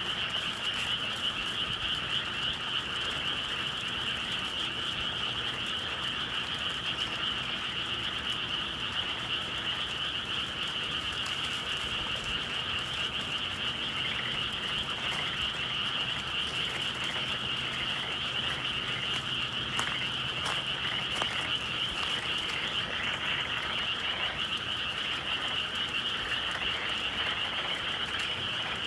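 A chorus of many frogs calling together, a dense unbroken trilling that keeps an even level throughout.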